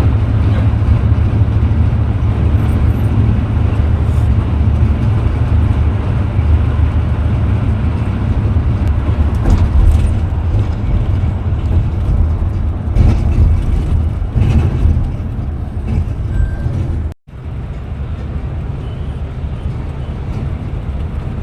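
Steady low rumble of a moving bus, engine and road noise together. It breaks off briefly about 17 seconds in and comes back quieter.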